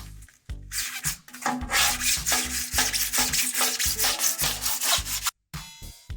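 Loud, rasping scraping over background funk music, starting about a second in and stopping suddenly near the end.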